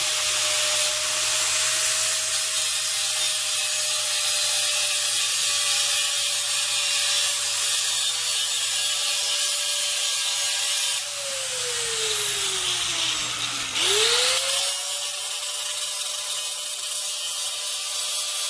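High-speed grinder working on exhaust pipe: a steady motor whine over a hiss of grinding metal. The whine sinks from about 11 s to 14 s as the tool is leaned into the metal, then spins back up and holds steady.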